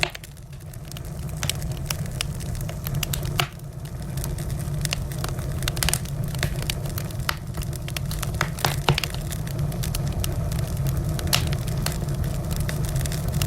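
Wood fire burning in a fireplace, with frequent sharp crackles and pops over a steady low rumble. The sound drops briefly right at the start and again about three and a half seconds in.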